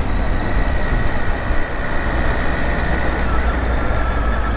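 Triumph Tiger 800 three-cylinder motorcycle ridden at a steady pace: the engine running under a steady rush of wind and road noise.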